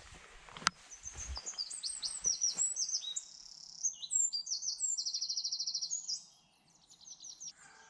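A small songbird singing one long, rapid song of high, varied notes, with a fast trill in the middle; it stops about six seconds in. A few low thumps and a sharp click come in the first second or so.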